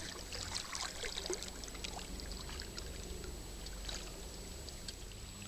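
Kayak paddling: water splashing and dripping off the paddle blades in small scattered splashes, busiest in the first couple of seconds and thinning out after that.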